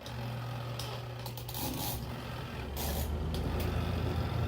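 Spin-dryer motor of a Kuppet twin-tub portable washing machine switched on and running with a low hum that grows louder, its pitch settling lower about halfway through, with a few short clatters. The spinner still runs, a sign the machine has power even though its wash side won't turn on.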